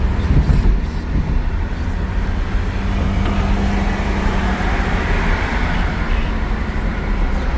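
Car driving along a road: a steady engine hum with low rumble and road noise.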